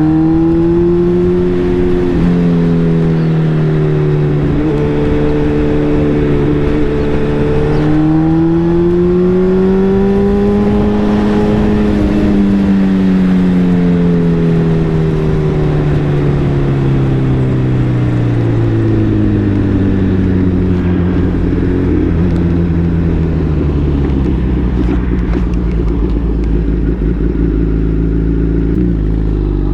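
A 2019 Suzuki Hayabusa's inline-four engine running while the bike is ridden. The engine pitch climbs gently about ten seconds in, then sinks slowly over some fifteen seconds as the bike eases off, and rises sharply again near the end.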